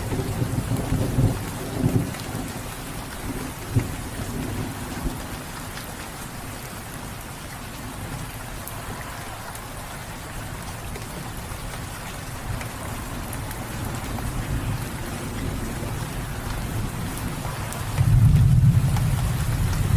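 Steady rain falling, with a rumble of thunder dying away in the first couple of seconds. A new loud, low thunder rumble breaks in near the end.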